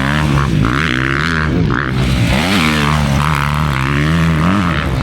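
Motocross dirt bike engine on the track, its revs rising and dropping several times as the rider works the throttle, over a steady low drone.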